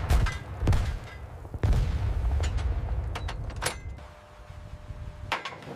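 Battle sound effects: heavy booms of gunfire or explosions with a low rolling rumble, then several sharp cracks, dying away after about four seconds.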